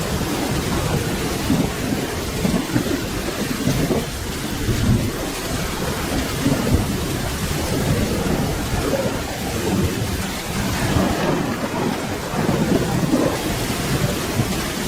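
Steady rain with low thunder rumbling underneath, swelling and easing in waves.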